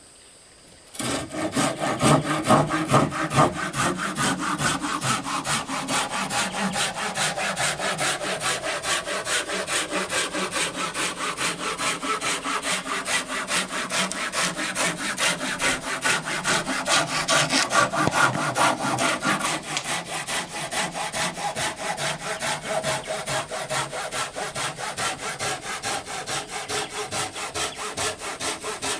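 Hand saw cutting through wood in quick, even back-and-forth strokes, starting about a second in and carrying on steadily.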